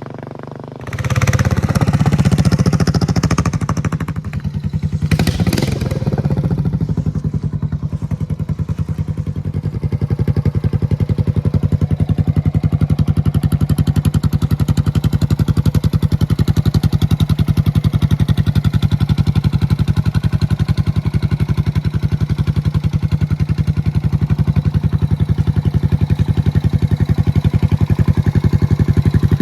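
1987 Suzuki Savage 650's single-cylinder four-stroke engine running: it revs up sharply about a second in, is blipped again around five seconds, then settles into a steady idle with an even, fast pulsing beat.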